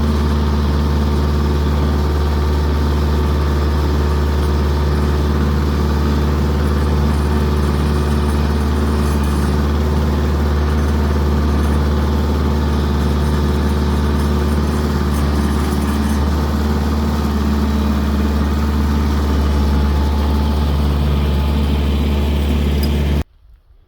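Kioti tractor's diesel engine running steadily at a constant speed, then cutting off abruptly near the end.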